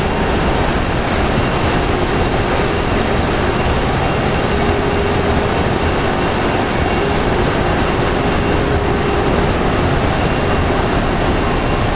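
Chili-grinding machinery running: a loud, steady mechanical din with a faint hum under it.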